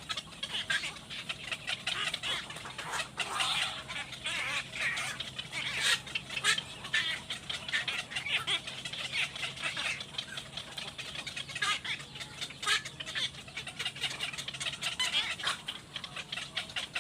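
Birds calling in many short, overlapping chirps and clucks, like a group of young fowl, over a faint low steady hum that stops near the end.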